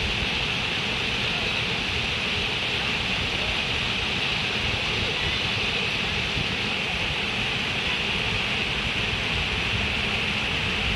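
Running water making a steady, even rush with no change in level, its hiss strongest in the upper-middle range.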